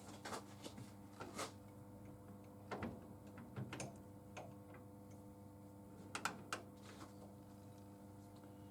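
Scattered sharp clicks and light knocks of tools and small metal parts being handled over a steady low hum, with the loudest clicks in a cluster about two-thirds of the way through.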